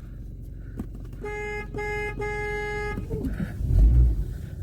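Car horn honked three times, two short toots and then a longer one, followed near the end by a low rumble.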